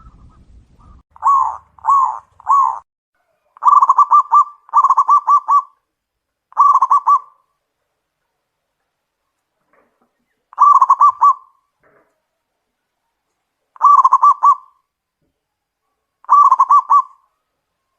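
Zebra dove (perkutut) cooing: three short notes, then a series of phrases repeated every couple of seconds, each a quick string of rippling coos.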